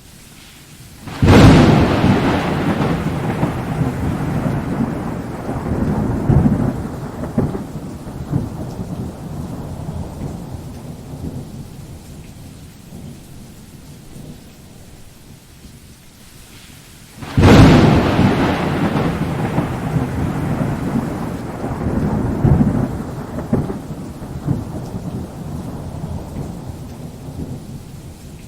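Thunderstorm: two loud thunderclaps, one about a second in and one a little past halfway, each cracking suddenly and then rumbling away over several seconds, over a steady rain.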